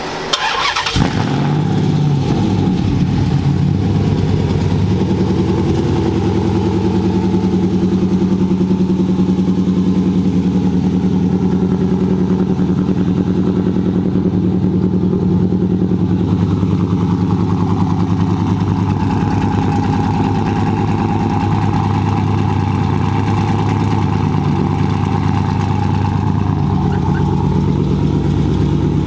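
Chrysler 300 SRT8's HEMI V8 firing up about a second in, then idling loud and steady through straight-piped true dual exhaust with no mufflers.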